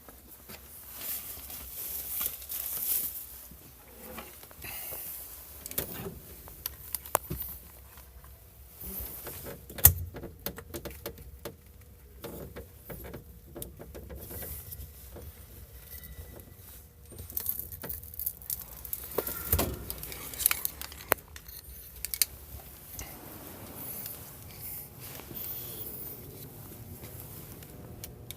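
Rustling and clattering of belongings being gathered and moved by hand, with scattered clicks and a few sharp knocks, the loudest about ten seconds in and another near twenty seconds.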